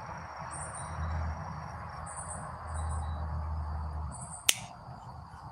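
Insects, crickets or similar, chirping outdoors in short high trills every second or so over a faint steady high whine, with a faint low hum underneath. A single sharp click about four and a half seconds in.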